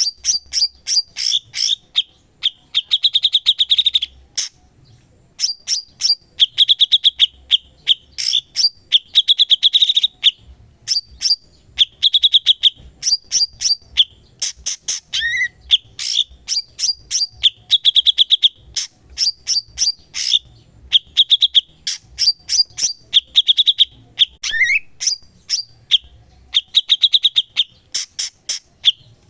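A cucak cungkok singing vigorously without pause: rapid sharp chirping notes broken every couple of seconds by a buzzy rattling trill, with a couple of short upslurred notes.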